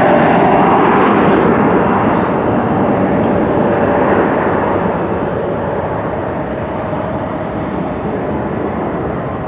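Jet airliner engines, a loud rushing noise with a faint steady whine in it, slowly fading as the aircraft moves away.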